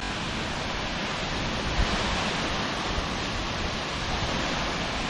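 Steady rushing of Manawaiopuna Falls, a waterfall about 400 feet tall, heard as an even, unbroken noise.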